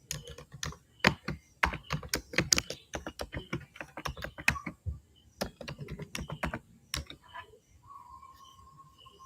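A rapid, irregular run of sharp clicks and taps, like typing, for about seven seconds. It then gives way to a faint, steady high tone with short chirps.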